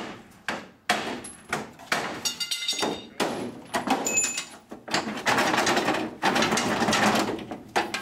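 Hammer blows on the steel of a 1965 Chevy C-10 pickup bed, struck repeatedly at an uneven pace, some with a short metallic ring, then a denser run of rapid blows from about five seconds in.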